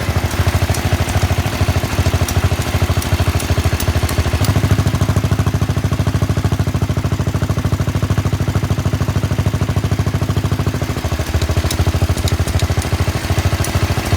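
Diesel engine of a 1973 Sears SS16 garden tractor running steadily just after a cold start, exhausting through a Walker glasspack resonator that is only sitting loose on the pipe, a rapid even train of exhaust pulses. It runs a little louder and fuller from about four seconds in until about eleven seconds in.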